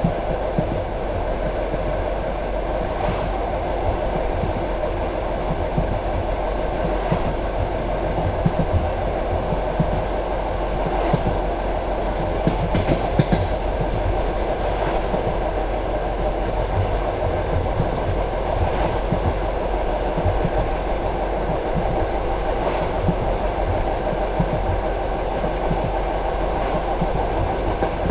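Passenger train carriage running along the line: a steady rumble of the wheels on the rails, with scattered clicks of the wheels over the rail joints.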